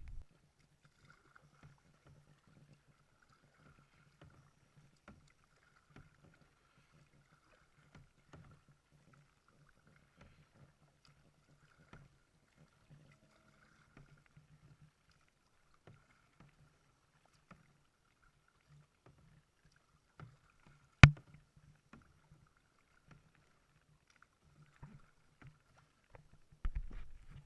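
Kayak being paddled, with faint knocks of the paddle about once a second over a low steady hum. One sharp, loud knock comes about two-thirds of the way through, and a duller thump near the end.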